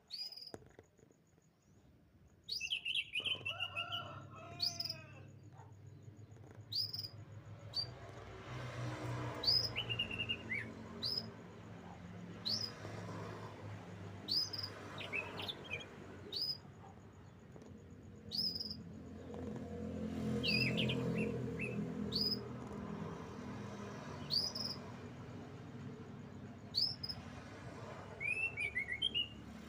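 Canary chirping: short high call notes repeated about once every second or so, with a few brief lower trills in between.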